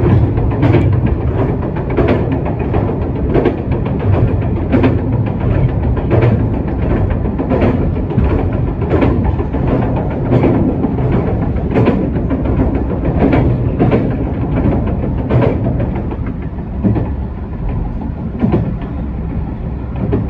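Ise Railway diesel railcar running, its wheels clicking over rail joints in a clickety-clack rhythm above a steady rumble. The clicks come roughly in pairs and space out after about sixteen seconds.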